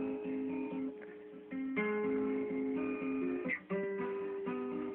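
Acoustic guitar playing strummed chords with held notes, an instrumental passage of a ballad, dipping briefly about a second in.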